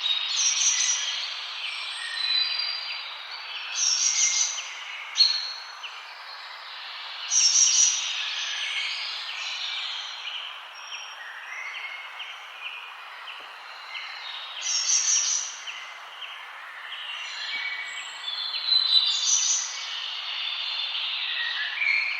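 Several forest songbirds singing and chirping at once over a steady background hiss, with a louder high song phrase coming every few seconds.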